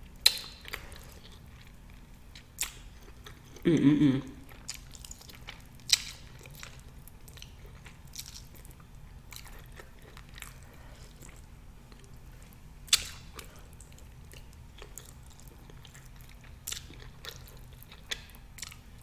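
Close-miked eating sounds: a person chewing oxtail meat, with scattered wet mouth clicks and smacks. A short vocal sound about four seconds in.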